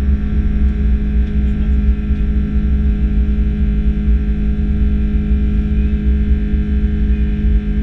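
Steady, loud drone of an Airbus A330-300's Rolls-Royce Trent 700 engines heard from inside the passenger cabin, with a deep rumble and several steady whining tones above it.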